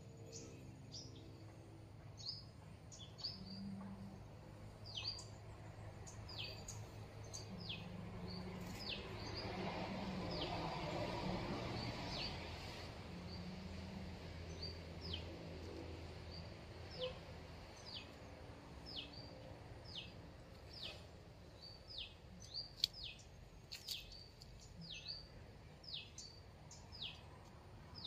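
A bird repeating short, sharp downward chirps, about one a second, sometimes in quick pairs. Around the middle, a few seconds of rustling leaves swells up under the chirps, and there is one sharp tick a little before the end.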